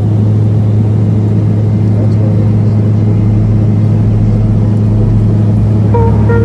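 Small airplane's engine and propeller running steadily, a loud low hum over a rushing noise. Music comes in near the end.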